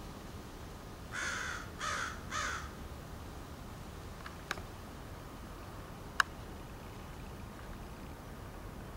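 Crow cawing three times in quick succession, harsh and raspy, followed a few seconds later by two short sharp clicks.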